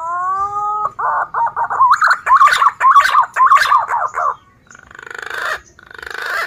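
Male punai green pigeon singing: a held whistled note, then a fast run of warbling, wavering whistles. Near the end come two short raspy, rapidly pulsing sounds that grow louder.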